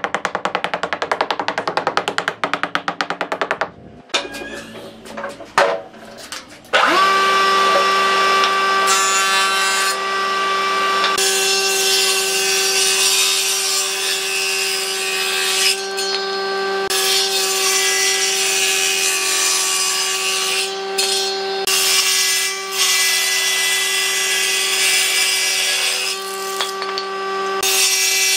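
A power tool working wood: a fast, even buzzing rhythm for about the first four seconds, a short lull with a few knocks, then a steady motor whine from about seven seconds in.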